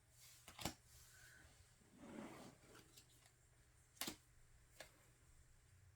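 Near silence broken by a few faint clicks and a soft rustle, typical of photocards and album inserts being handled and sorted.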